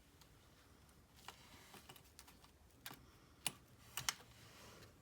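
Faint, scattered clicks and light rustles of paper tags and twine being handled, with a few sharper taps in the second half.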